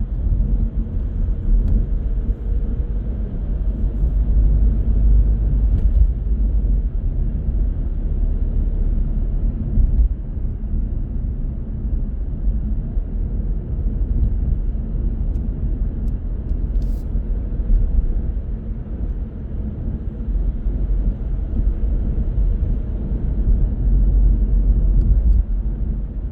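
Car driving in city traffic: a steady low rumble of engine and road noise.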